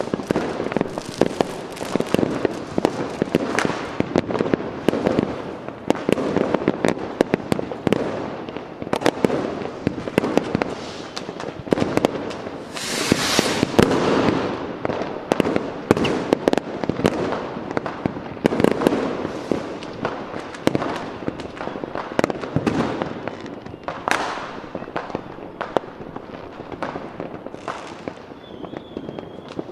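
Continuous fireworks: a dense barrage of bangs and crackling, with a rocket hissing up about halfway through and a short whistle near the end.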